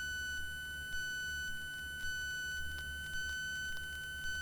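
Steady high-pitched electronic whine in the Cessna 172's cockpit intercom audio, unchanging in pitch, over a faint low hum of the engine that swells and fades about once a second.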